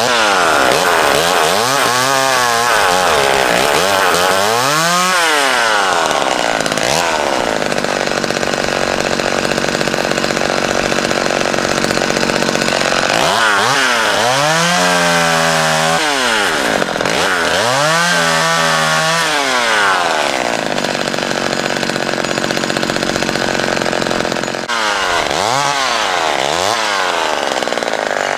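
Vintage McCulloch Mini Mac 35 two-stroke chainsaw running at high revs while cutting branches. Its engine note dips and climbs back several times as the chain loads up in the wood: a few seconds in, twice about halfway, and again near the end.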